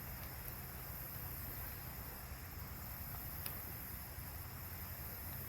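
Steady outdoor background noise: a low rumble with an even hiss over it, and one faint tick about three and a half seconds in.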